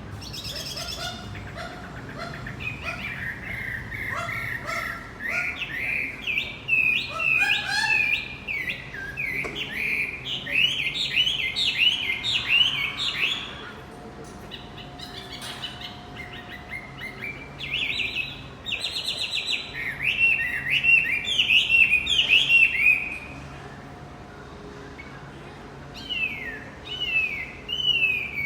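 Male wambi songbird singing bright, rapid strings of quick falling chirps in several bursts separated by short pauses. This is song used as a lure ('pancingan') to get a silent caged wambi to start singing.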